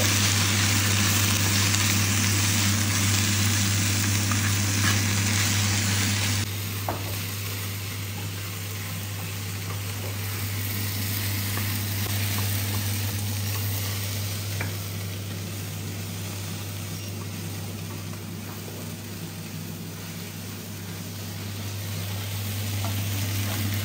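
Sliced okra sizzling steadily as it fries in oil in a pan and is stirred with a wooden spatula. A steady low hum runs underneath. The sizzle drops suddenly in level about six seconds in.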